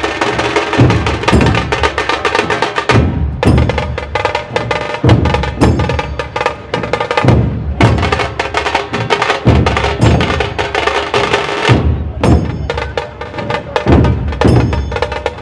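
Dhol Tasha ensemble drumming: big double-headed dhol drums keep a heavy rhythm under fast, crisp tasha strokes, with the beats coming in dense runs.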